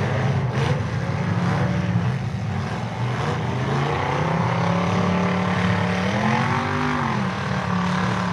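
Several demolition derby car engines running and revving together as the cars push around a muddy track, with one engine's pitch rising and falling about six and a half seconds in.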